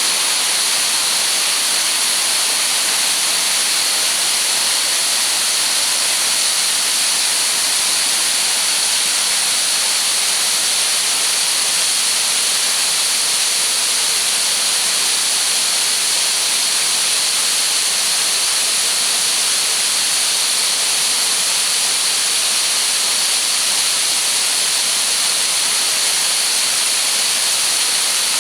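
Waterfall in spate after heavy rain, swollen water pouring and crashing in a loud, steady rush.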